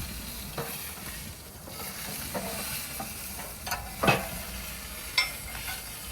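Meat sizzling in a wood-fired oven grill, a steady hiss of frying fat, broken by about five short knocks and clinks as the meat is put back in, the loudest about four seconds in.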